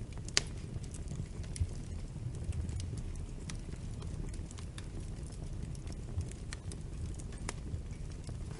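Wood fire in a fireplace burning with a steady low rumble and scattered sharp crackles and pops, the loudest pop about half a second in and another near the end.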